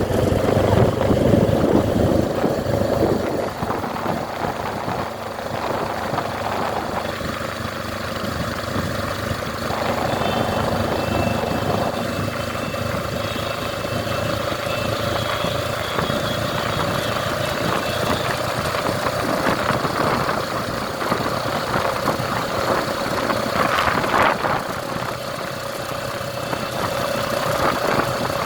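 Motorcycle engine running steadily, with one constant tone over it.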